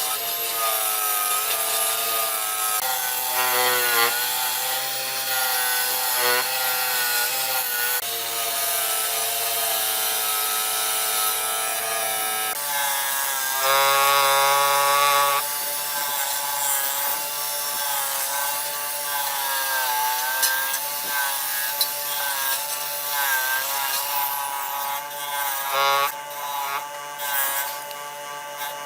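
Power tool running on a workpiece, its whine dipping and rising in pitch as it comes under load and eases off.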